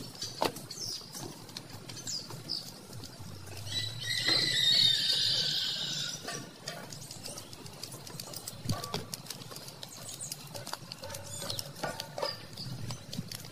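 Birds calling, with one longer, louder call between about four and six seconds in, and scattered light clicks and taps throughout.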